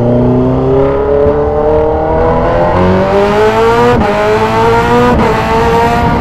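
2014 Kawasaki Z1000 Sugomi's inline-four engine through a loud aftermarket exhaust, accelerating hard with its note rising steadily. The note breaks briefly twice, about four and five seconds in, then carries on.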